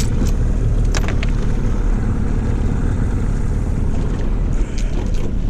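Boat's outboard motor running steadily, with a few light knocks about a second in and again near the end.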